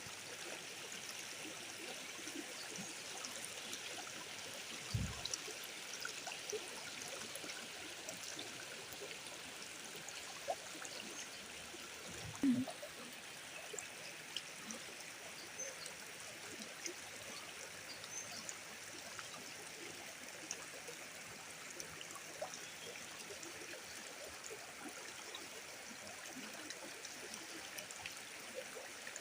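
A river flowing steadily with an even rushing hiss, broken by two short, dull thumps about 5 and 12 seconds in.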